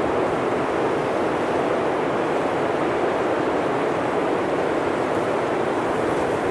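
Blizzard wind blowing steadily, an even rushing noise with no gusts or breaks.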